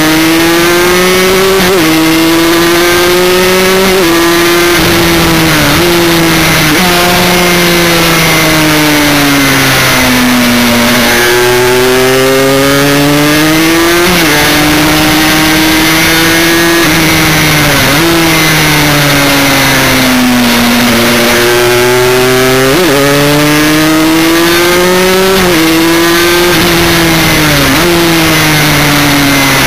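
Aprilia RS 125 Extrema's two-stroke single-cylinder engine heard from on board at full throttle. Its note climbs through the revs with quick dips at each upshift and falls away under braking into corners, over a steady rush of wind.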